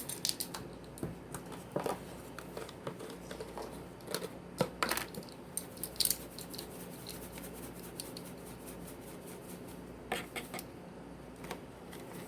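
Scattered light clicks, taps and scrapes of measuring spoons and spice jars being handled while dried spices are measured out, over a faint steady room hum.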